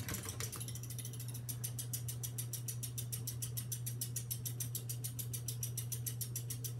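Halsey GEV ceiling fan running on high: a steady motor hum with fast, even ticking at about eight or nine ticks a second.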